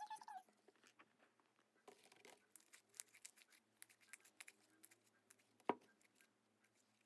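Clear slime being handled: faint sticky crackles and clicks, with one sharper click about two-thirds of the way through.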